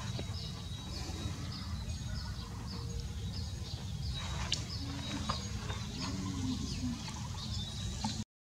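Open-air field ambience: a bird repeats a short high chirp about twice a second over a steady low rumble, with a few scattered sharp clicks. The sound cuts out for a moment near the end.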